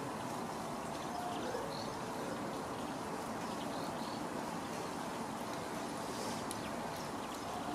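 A few faint, short bird chirps over a steady background rush.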